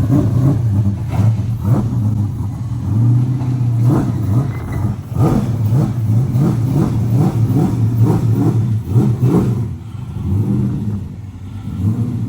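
A race car's engine revving hard, rising and falling again and again, with a quick run of sharp blips in the middle.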